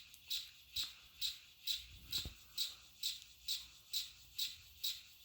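Canarm Twister ceiling fan running on low with a short, high squeak repeating evenly about twice a second. The squeak is the motor rubbing on its housing because the fan is resting on the floor, not bearing noise.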